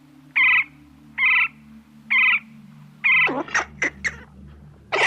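Animal calls: four short calls about a second apart. About three seconds in, a quicker run of sharp calls that sweep steeply upward in pitch takes over.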